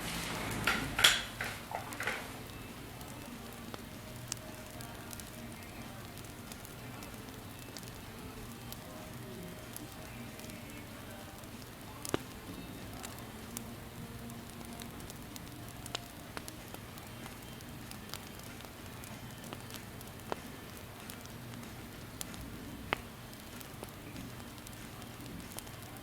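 Campfire burning with a steady low hiss and occasional sharp crackles and pops, a cluster of louder cracks in the first two seconds.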